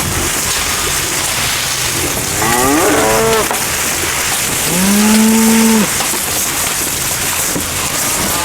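A cow mooing twice: a wavering call about two seconds in, then a steadier, lower moo of about a second near the middle, over a steady background hiss.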